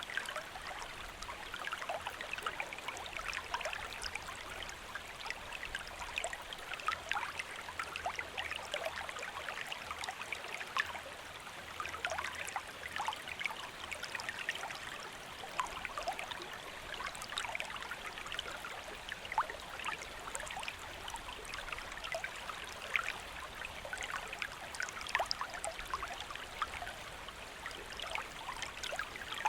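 Stream water flowing and babbling steadily, with many small splashes and gurgles.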